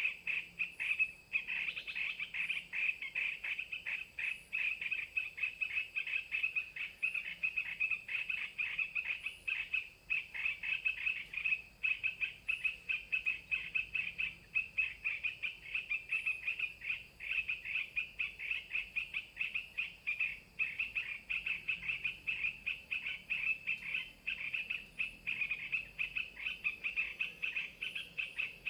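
Bulbul (merbah) calls: a rapid chattering of short chirps that runs on without a break.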